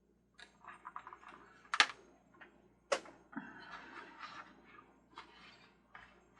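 Handling noise on a workbench: small plastic clicks and rattles of parts and test leads being moved, with two sharp clicks, the first a little under two seconds in and the second about a second later.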